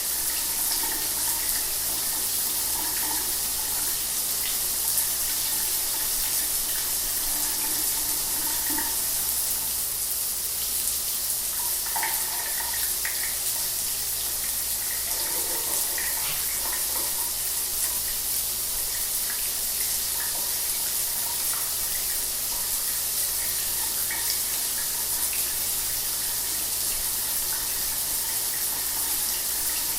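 Shower water running steadily, a continuous hiss of spray with small shifting splashes.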